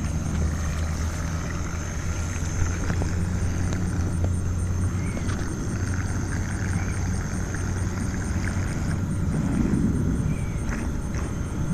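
Radio-controlled boat with a 540 brushless motor running out on the water: a thin steady high whine over a steady low rumble that swells near the end.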